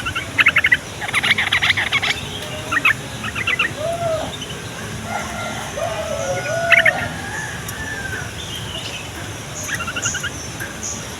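Yellow-vented bulbul (trucukan) giving bursts of quick, chattering calls, several in the first few seconds and a few more near the end, with lower, arching calls from other birds in the middle.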